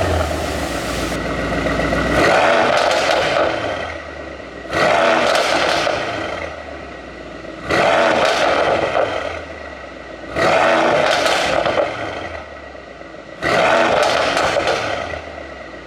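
Mercedes-AMG E63's twin-turbo 4.0-litre V8 blipped hard about every three seconds, five times, each rev falling away into a string of exhaust crackles and pops from its pop-and-crackle tune.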